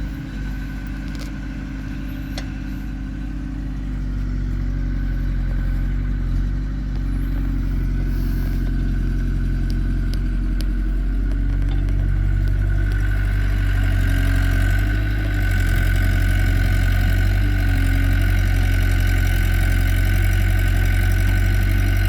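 Heavy diesel engine running steadily with a thin steady whine over it, growing louder about four seconds in and again about halfway through.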